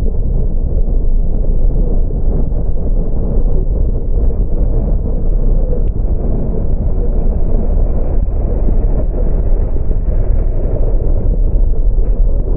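Car on the move: a steady, loud low rumble of road and wind noise, muffled, with little above a mid hiss.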